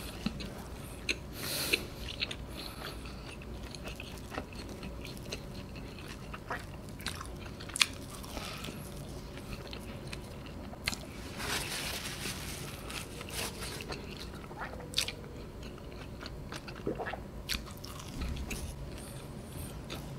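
A person chewing and biting a piece of cheese-filled pizza crust close to the microphone. Irregular short mouth clicks, with a few longer, louder bites near the start and about midway.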